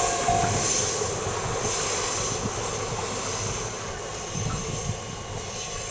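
A railway level-crossing alarm's repeating tone, about two strokes a second, stops about half a second in. A passing train's running noise carries on and slowly fades as it moves away.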